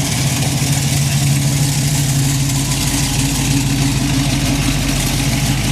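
A car engine idling close by, loud and steady.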